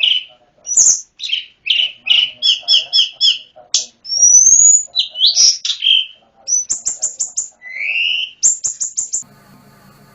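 Tledekan gunung (sulingan gunung) songbird singing a fast, varied song of chirps, repeated trill notes and rising whistles. The song stops about nine seconds in, leaving a faint low hum.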